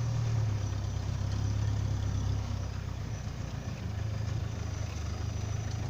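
Heavy diesel engine running steadily at a low, even hum.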